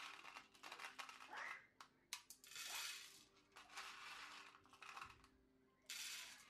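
Small hard pieces, most likely dry popcorn kernels, poured and clattering into a pot or bowl: a string of sharp clicks and short rattling pours of about a second each.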